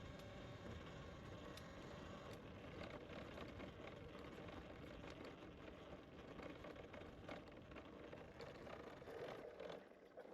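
Bicycle being ridden on a trail: steady tyre-rolling noise with scattered small clicks and rattles, easing off near the end.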